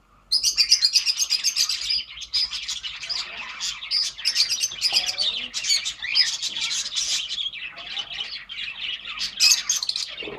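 Budgerigar chicks chirping rapidly and continuously. The chirping starts suddenly a moment in.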